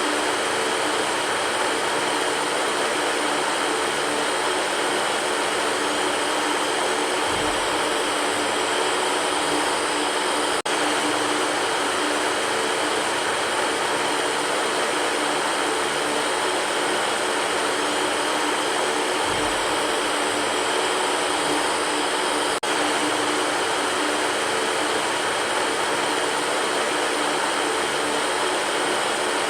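Electric fan running steadily: an even rush of air with a low motor hum under it. It breaks with a faint tick about eleven seconds in and again at about twenty-three seconds.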